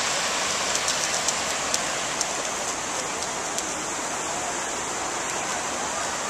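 Ocean surf: broken waves washing in as a steady hiss of foaming water, with faint crackles in the first few seconds and easing a little after about two seconds.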